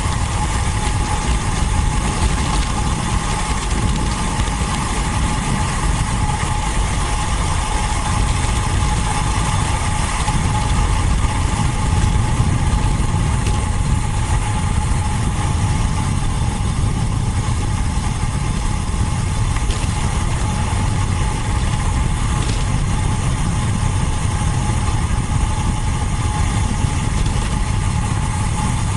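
Steady rumble of wind buffeting the microphone of a camera on a moving road bike, with a steady high whine running through it.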